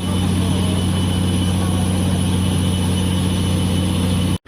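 Heavy truck engine running at a steady speed, a low, even hum that holds one pitch throughout.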